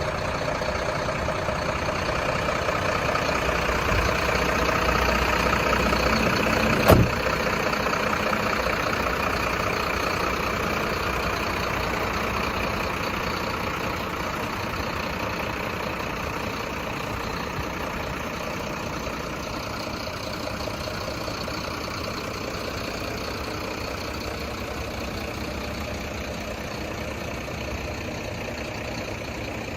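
Truck engine idling steadily, with one sharp knock about seven seconds in; the engine sound slowly gets quieter over the second half.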